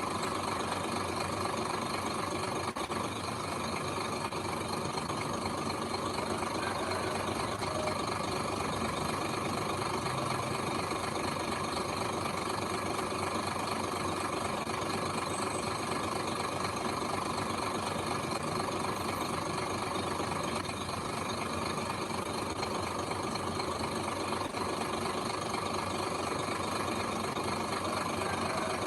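Heavy machine's diesel engine running steadily, with no revving or change in pitch.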